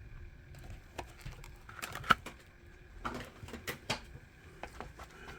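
Light clicks, taps and rustles of a small diecast model car being handled and turned over, with the sharpest click about two seconds in.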